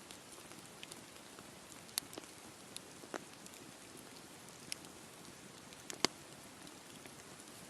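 Wood campfire burning: a steady hiss with scattered crackles and pops, the sharpest pop about six seconds in.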